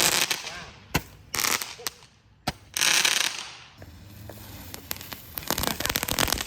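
Consumer fireworks going off: several sharp bangs in the first half, with hissing bursts between them, then dense rapid crackling from a little past halfway.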